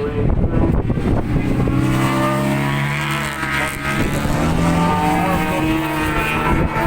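Racing motorcycles passing at speed, engines revving high, their pitch falling and rising through gear changes. Wind rumbles on the microphone near the start.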